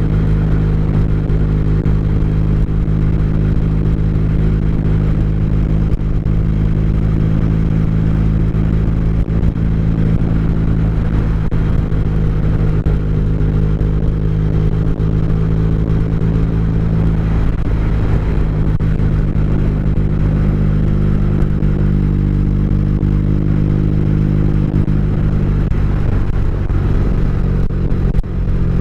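Motorcycle engine running at a steady speed, a constant deep engine note with road and wind noise over it.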